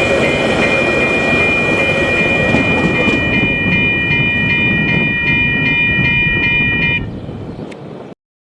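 A train rumbling past over a level crossing while the crossing's Western Cullen Hayes electronic bells ring with a steady repeating chime. The bells cut off about seven seconds in, the train noise fades quickly, and then the sound stops abruptly.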